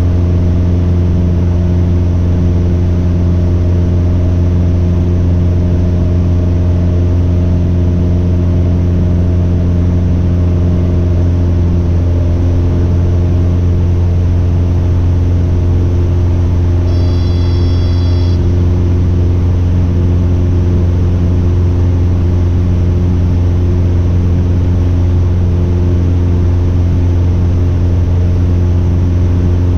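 1973 Cessna Cardinal RG's four-cylinder Lycoming IO-360 engine and propeller in flight, a loud, steady, unchanging drone. A short high electronic tone sounds over it for about a second just past the middle.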